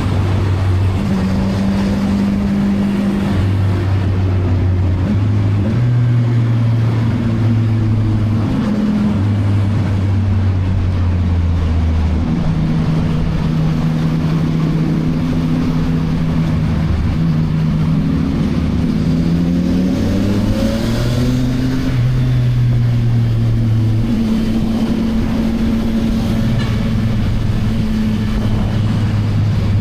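CFMoto 675NK's inline-three engine with its stock exhaust, running while riding. The engine note holds steady pitches that step up and down, and rises in one rev about two-thirds of the way through.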